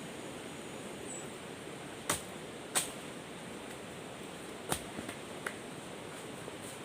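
Steady outdoor background hiss with four short, sharp clicks or snaps, two close together about two seconds in and two more near five seconds.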